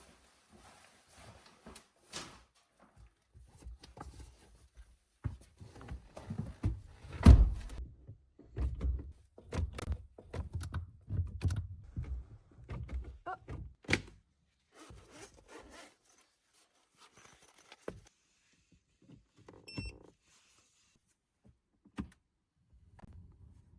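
Irregular knocks, clunks and thuds of hard objects being handled. They are densest and loudest in the middle, with one heavy thud about seven seconds in, and thin out to a few single clicks near the end.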